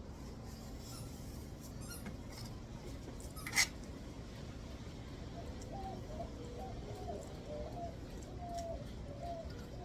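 A single sharp click about three and a half seconds in, then a faint bird calling in a run of short, repeated notes from about six seconds on.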